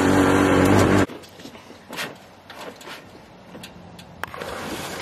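Apollo 250 dirt bike engine running at a steady speed, then cutting off abruptly about a second in. Light scattered clicks and knocks follow.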